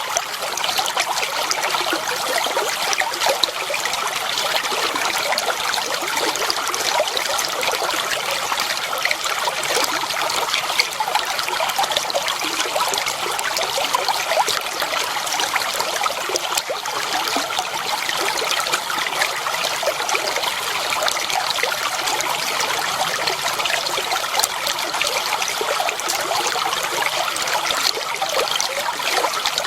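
Clear water running and trickling steadily over stones in a shallow stream, an even babbling with no pauses.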